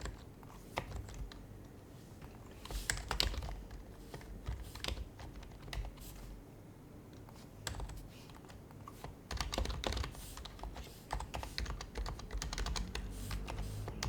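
Typing on an HHKB Professional HYBRID Type-S, a Topre-switch keyboard with dampened keys: runs of soft keystrokes in bursts with short pauses between them.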